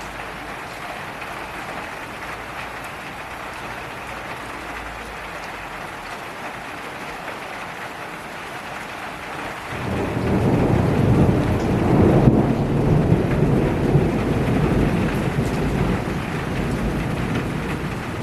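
Steady rain falling, with a long rolling rumble of thunder swelling up about halfway through and slowly fading.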